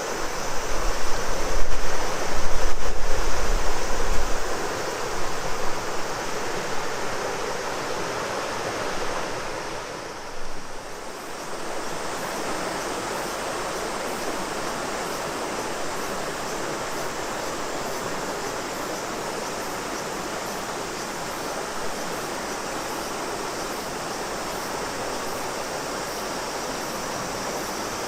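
A large river's flow makes a steady rushing of water, with cicadas shrilling high above it. Wind rumbles on the microphone for the first few seconds, and the sound dips briefly about ten seconds in.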